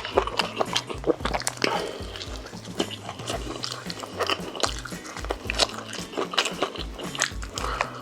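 A person chewing and biting food close to the microphone, with many short crunchy clicks.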